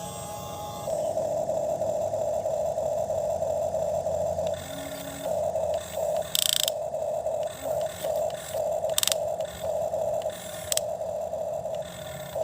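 Small geared electric motor of a toy excavator whining, running steadily at first and then in short stop-start spurts as the controls are worked, with a few sharp clicks or scrapes.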